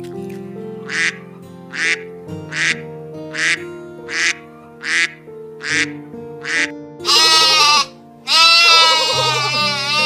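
A duck quacking about eight times in an even rhythm, then two long goat bleats from about seven seconds in, over background music.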